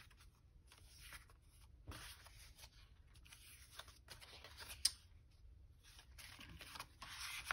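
Paper rustling and sliding as small paper tags are handled and tried in a journal pocket, in several short swells, with one sharp tap about five seconds in.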